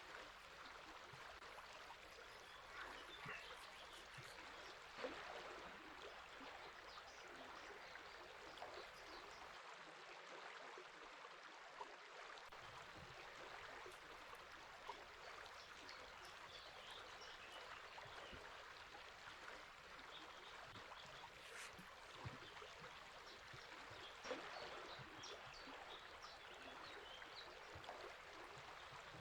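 River water flowing steadily: a faint, even rush, with a few scattered bird chirps.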